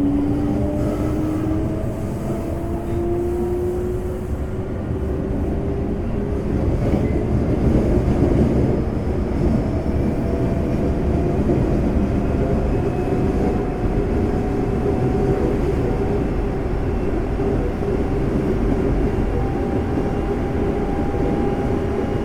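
Hitachi GTO VVVF inverter and traction motors of a Semboku 5000 series train whining, the tones rising in pitch as the train gathers speed, over a steady rumble of wheels on rail heard inside the car.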